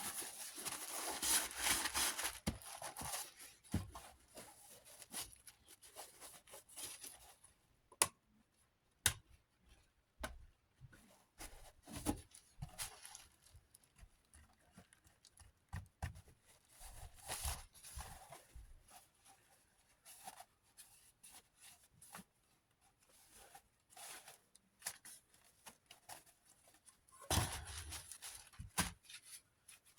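Hands working on small desk-fan parts: scattered clicks and light knocks, with stretches of rubbing or wiping near the start and again near the end.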